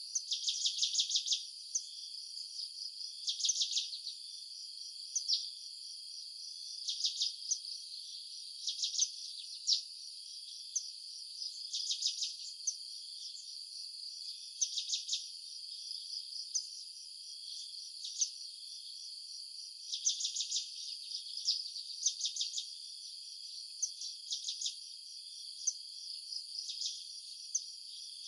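Insects chirping: short clusters of rapid, high clicking trills every second or two over a steady high-pitched insect hum.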